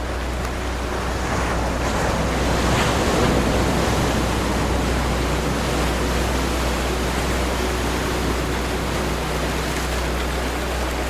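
Ocean waves washing in, a surf wash that swells to a peak about three seconds in and then slowly eases.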